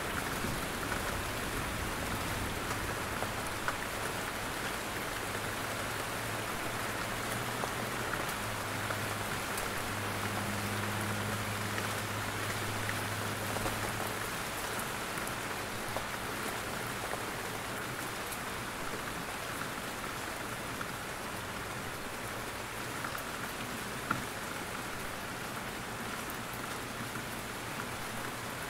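Steady rain falling in a forest, with single drops dripping from the trees. A low rumble sits under it for the first half and then fades out, and one sharp drip stands out near the end.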